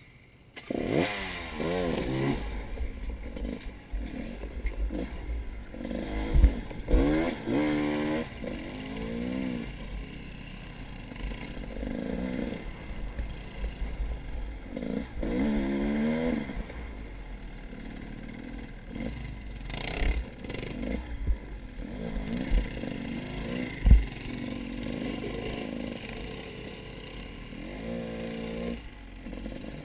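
A motor vehicle's engine revving up and down several times, with rattling and a few sharp low thumps.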